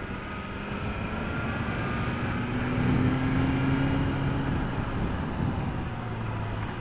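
BMW S1000R's inline-four engine pulling through its stock exhaust as the bike accelerates, the pitch climbing slowly, then dropping at an upshift about four and a half seconds in.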